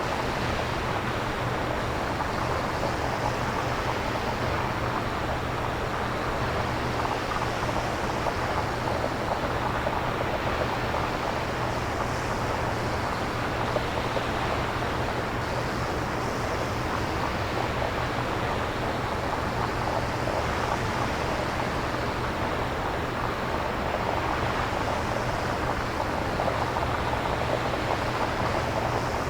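Synthesized nature ambience: a steady, even rush of generated noise with slow swells every few seconds, like surf or wind, and a low steady hum beneath.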